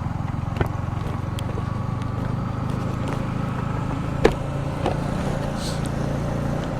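Yamaha MT-15's single-cylinder engine idling steadily, hot after the ride, with a sharp click about half a second in and a louder one about four seconds in.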